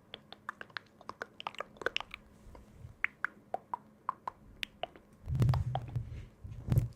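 Close-miked ASMR tapping: a run of quick, light clicks, about three to four a second. From about five seconds in, a loud, low, muffled rumbling of thumps comes in.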